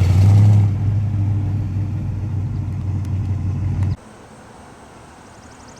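Car engine idling with a steady low rumble, stopping abruptly about four seconds in.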